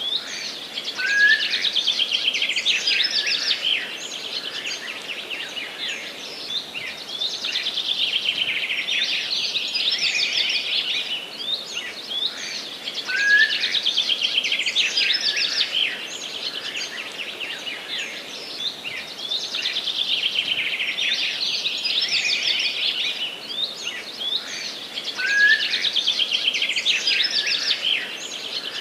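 Songbird singing in forest: long phrases of rapid trills and twitters, one after another with short breaks. A short downward whistle comes about a second in, again about halfway and near the end, over a faint steady hiss.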